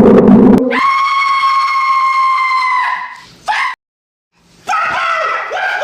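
A man's long, high-pitched scream held at one steady pitch for about two seconds before it dies away. After a brief silence, another scream starts with a wavering, bending pitch.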